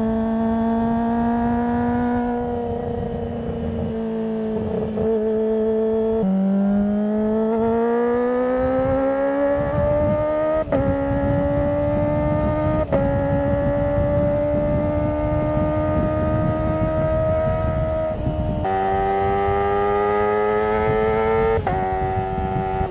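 Kawasaki ZX25R's 250 cc inline-four exhaust note while riding: a steady high-revving tone that climbs as the bike accelerates, broken by several quick gear changes that make brief gaps and steps in pitch.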